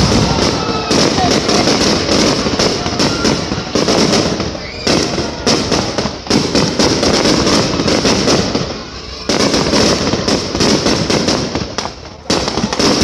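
Fireworks display: a loud, dense crackle of bursting shells and crackling stars, with a few brief lulls.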